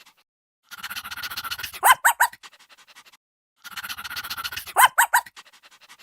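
An animal's calls: a scratchy, rasping stretch followed by three short, high calls in quick succession, the whole pattern heard twice, about three seconds apart, with silence between.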